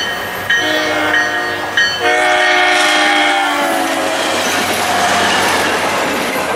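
SunRail commuter train passing close by at speed, sounding its horn in several blasts, the last long blast dropping in pitch as the train goes by. Then the rush and clatter of the cars' wheels on the rails, fading near the end.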